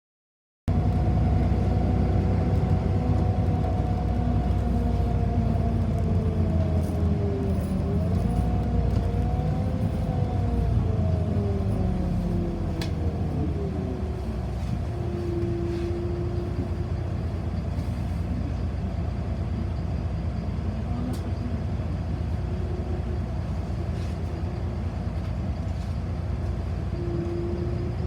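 Inside a moving city bus: a steady low rumble, with a whine that glides down and up as the bus changes speed in the first half and rises again near the end. The sound cuts in after a short dropout at the very start.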